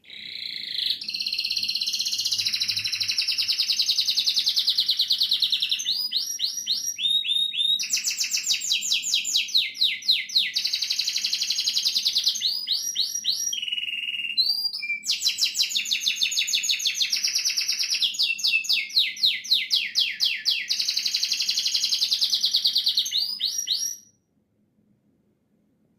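Domestic canary singing a long, unbroken song of rapid trills and rolls, moving from one trill to the next every second or two. The song stops abruptly near the end.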